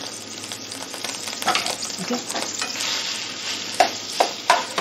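Noodles sizzling in hot oil in a frying pan while being stirred and tossed with a slotted spoon. The sizzle grows louder a second or so in, and there are a few sharp knocks of the spoon against the pan near the end.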